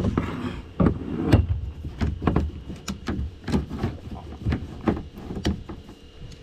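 Irregular knocks and thumps against a kayak's hull, roughly one or two a second, over a low rumble, as a hooked brown trout is brought in.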